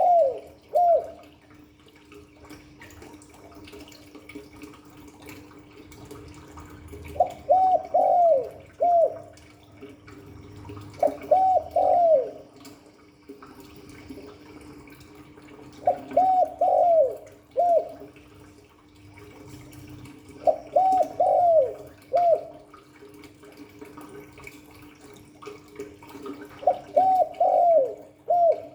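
Spotted dove cooing: short phrases of three or four coos, each rising and falling, repeated every four to five seconds over a faint steady hum.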